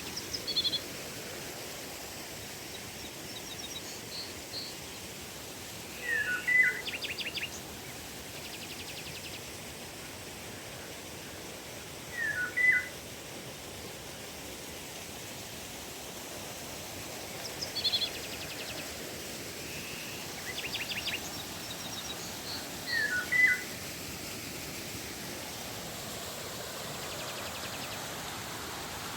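A songbird repeats a short phrase of quick sweeping notes five times, roughly every five to six seconds, over the steady rush of flowing river water.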